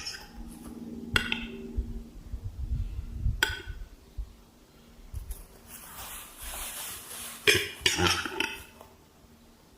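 A few sharp clinks and knocks, four or so spread over several seconds, with a rustling hiss between the last ones.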